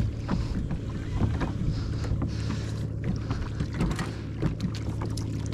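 Water lapping against a kayak hull, with wind buffeting the microphone and irregular small clicks and knocks.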